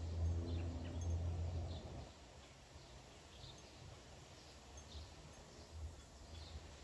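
A low rumble for about the first two seconds, then scattered faint bird chirps over a quiet outdoor background.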